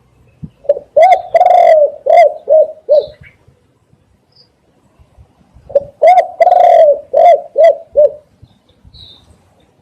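Spotted dove cooing: two loud phrases about three seconds apart, each a run of short coos with one longer drawn-out note near the start.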